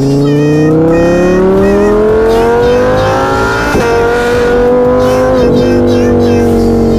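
An engine revving up, its pitch rising steadily for about four seconds, then holding at a steady high pitch until it cuts off abruptly. It is loud.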